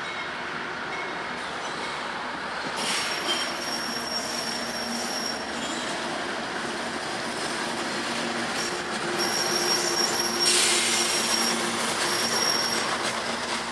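Freight train cars rolling past, steel wheels squealing in thin high tones that come and go from about three seconds in. The loudest stretch is about ten seconds in.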